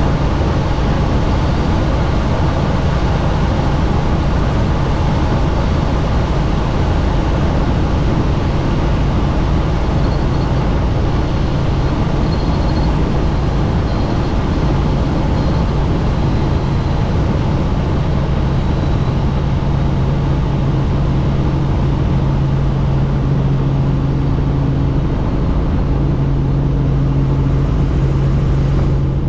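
Helicopter in flight heard from inside the cabin with the doors off: loud, steady engine and rotor noise mixed with rushing wind, with a steady low hum throughout.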